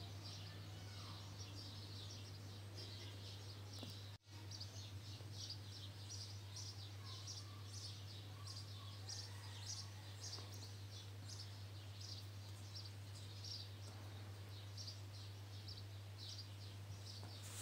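Faint birds chirping in quick, irregular short calls over a steady low hum. The sound drops out for an instant about four seconds in.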